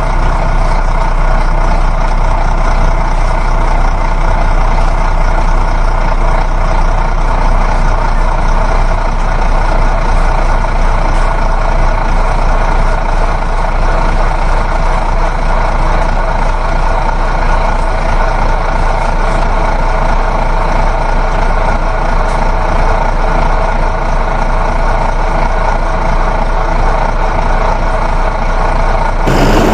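A heavy vehicle engine running steadily, unchanging in pitch, over a constant low hum; it breaks off abruptly near the end.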